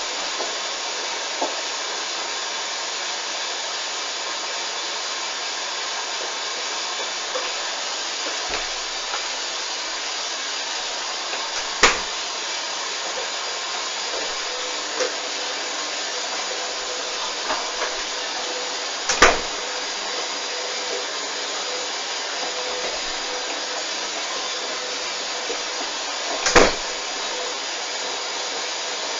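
Hoover front-loading washing machine in its first rinse after a suds lock, running with a steady hiss and three sharp knocks from the drum, about seven seconds apart.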